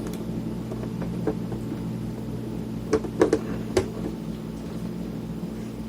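A few light clicks and taps, mostly about three seconds in, from small parts and tools being handled while a cassette multitrack recorder is taken apart, over a steady electrical hum.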